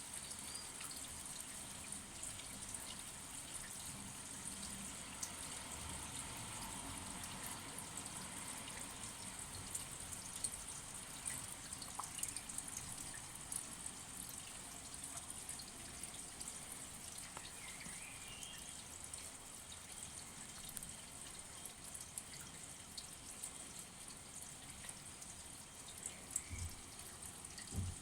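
Steady rain, a constant hiss with scattered individual drops dripping and ticking close by. A couple of brief low thumps come near the end.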